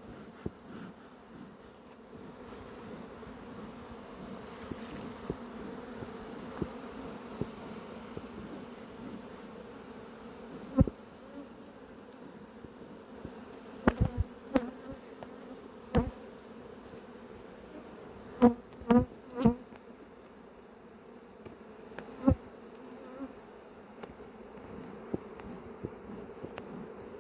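A large honey bee colony buzzing in a steady drone, the bees agitated ("pissed") with the hive opened. Several sharp knocks and clicks break in after the middle, the loudest a quick cluster about two-thirds of the way through.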